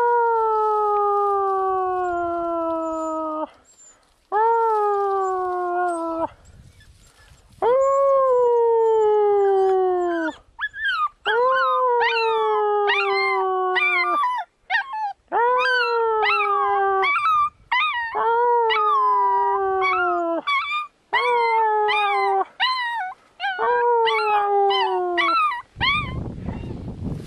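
Small dog howling, as it does when its owner whistles. The first howls are long and slide slowly down in pitch. From about ten seconds in they come shorter and closer together, each swooping up and then falling away.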